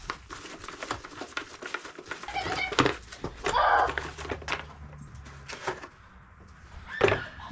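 Scattered clicks and knocks of hands handling the plastic air filter housing on a lawn tractor engine, with a few short bird calls, fowl in the background, around the middle.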